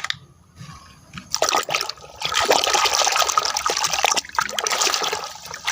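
Water running and splashing over a red plastic toy excavator as it is washed, starting about a second and a half in after a short quiet stretch and then running steadily.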